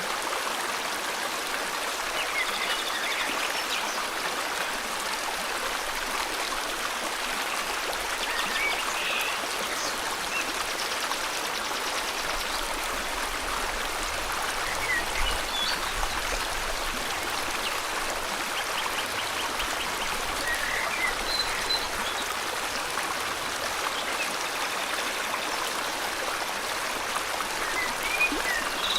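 River water flowing steadily, with brief bird chirps and trills scattered every few seconds.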